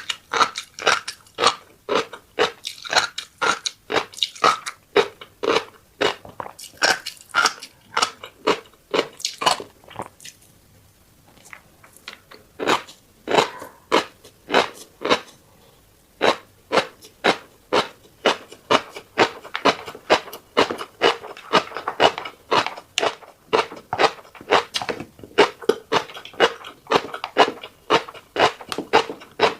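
Close-miked chewing of a rice bowl topped with fish roe: steady, rhythmic crunching, about two to three chews a second, with a short pause about a third of the way through.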